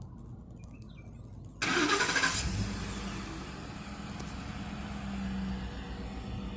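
2013 Ford F-150's 5.0-litre V8, breathing through a Borla ATAK exhaust, starting up: a sudden loud catch about a second and a half in, loudest for under a second, then settling into a steady idle rumble.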